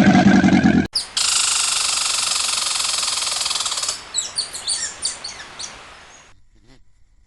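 A loud pitched animal call cuts off about a second in, followed by a dense, high-pitched chorus of bird chirping for about three seconds, then separate short chirps that fade away.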